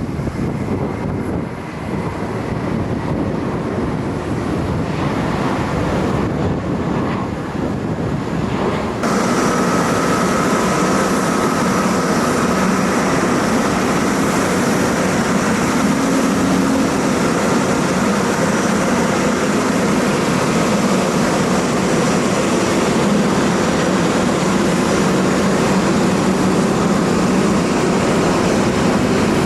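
Jet airliner engines making a steady rushing roar with a faint high whine. The sound jumps abruptly louder about nine seconds in.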